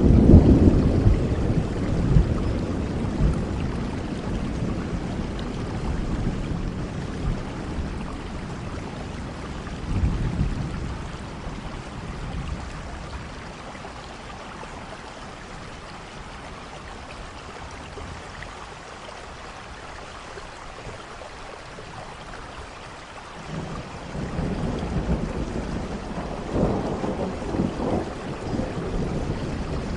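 Steady rain with rolling thunder: a peal fading over the first few seconds, a brief rumble about ten seconds in, and thunder rumbling again from about twenty-three seconds in.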